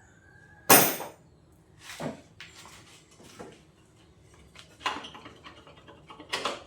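Metal clanks and knocks as the front wheel spindle is knocked out and the wheel freed from a motorcycle's forks: one loud, sharp clank about three-quarters of a second in, then scattered lighter knocks and rattles.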